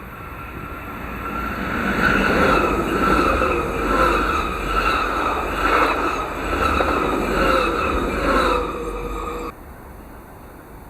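A train passing by at speed: the rumble builds over the first two seconds, then the train rushes past with a pulse about once a second and a steady ringing tone from the wheels and rails. The sound stops abruptly near the end.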